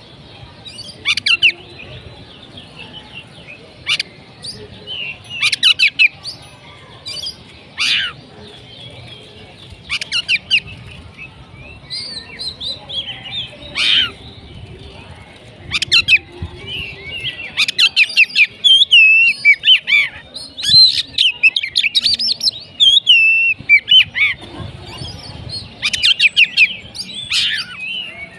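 Oriental magpie-robin (kacer) singing a loud, varied song of sharp repeated notes, whistled slurs and rapid trills, broken by short pauses and coming more densely in the second half.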